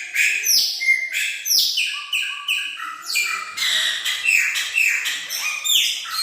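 Chopi blackbird (pássaro-preto) singing: a continuous run of loud, clear whistled notes, several a second, many of them sliding downward in pitch.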